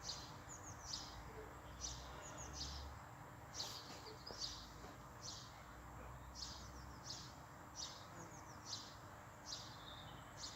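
Faint bird chirping: short falling chirps repeated about once a second, over a low background hum.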